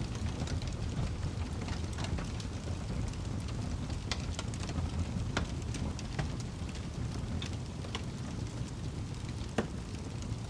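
Wood fire crackling: scattered sharp pops and snaps over a steady low rumble, with one louder pop near the end.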